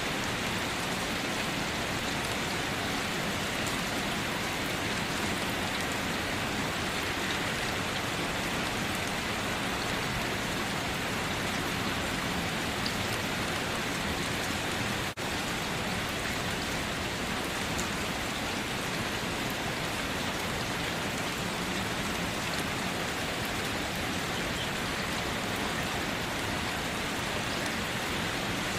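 Steady rain: a continuous, even hiss of falling drops, with a momentary dip in level about halfway through.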